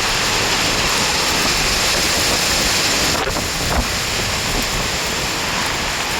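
Strong gusting wind blowing over the microphone as a loud, steady rush, with a brief faint knock a little past halfway.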